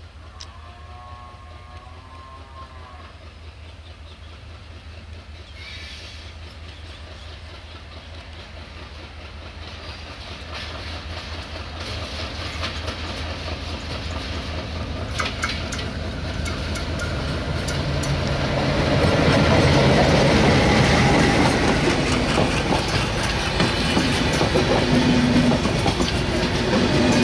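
Alco WDM-3A diesel locomotive hauling a passenger train closes in and passes, its engine rumble and wheel noise growing steadily louder. From about a third of the way in, the wheels click over rail joints and points more and more, then the coaches roll past with a continuous clickety-clack.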